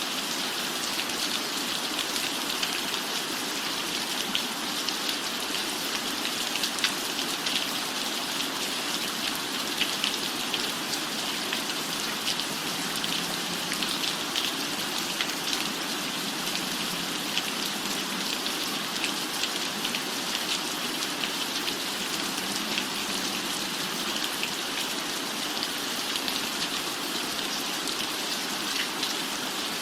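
Steady rain falling, an even hiss with many small drop ticks, unchanging throughout.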